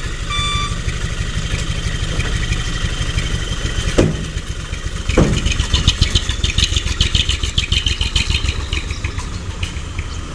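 Hino Dutro truck's diesel engine running steadily with a fast rhythmic chug, a short beep at the very start and two brief falling sounds about four and five seconds in.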